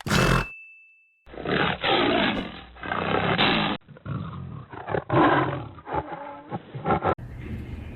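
Tiger roaring and growling in a series of loud bursts with short breaks between them.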